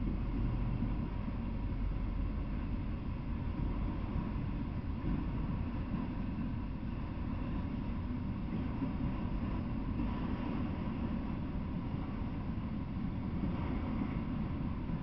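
Freight train of autorack cars rolling past, a steady low rumble of wheels on the rails.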